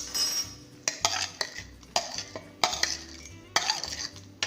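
Spoon and utensils clinking against a grinder jar and bowls as whole spices are tipped in for a curry paste: a series of sharp clinks, roughly one or two a second.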